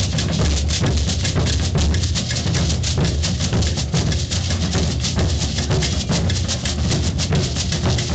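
Maracatu percussion ensemble playing a steady, dense rhythm, with deep bass drums under rattling snare drums and shakers.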